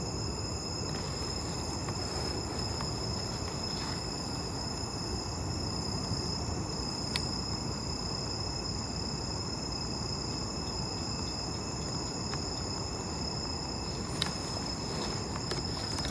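Night insects such as crickets trilling steadily over a low, even background hiss, with a couple of faint clicks.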